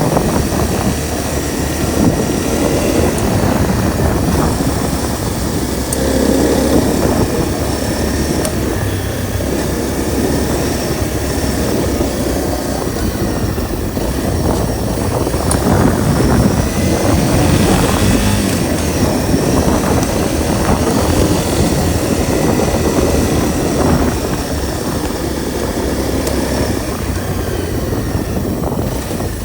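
Honda CRF250L's single-cylinder four-stroke engine running steadily under way, mixed with wind and road rumble, its level rising and falling a little with the throttle.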